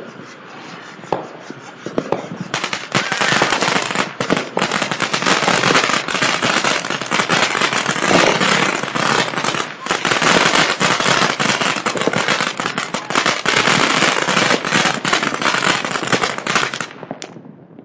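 Commercial fireworks going off: a few separate bangs, then from about two and a half seconds in a dense, continuous crackle of rapid pops lasting about fourteen seconds, which cuts off suddenly near the end.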